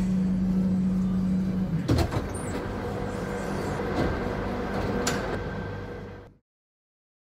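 Metro train sound effect: a steady low hum over a rumble, with sharp clunks about two, four and five seconds in. It fades out and stops about six seconds in.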